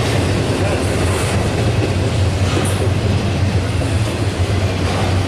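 Double-stack container freight train rolling past close by, a steady, loud rumble of wheels on rail.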